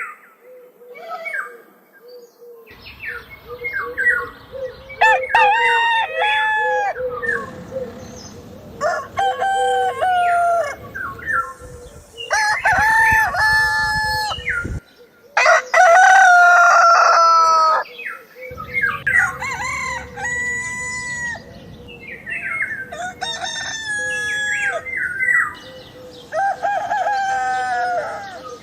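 Roosters crowing, about seven cock-a-doodle-doos one after another, with short clucking calls in the first few seconds.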